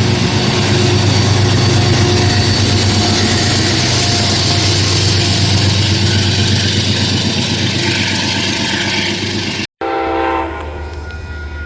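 Train passing close by, a loud steady rush of wheels and running gear with a deep rumble underneath. Near the end it cuts off abruptly to a quieter, steady rumble.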